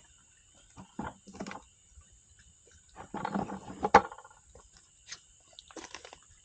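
Wood campfire crackling and popping: scattered sharp snaps, a dense flurry of crackles about three seconds in that ends in one loud pop.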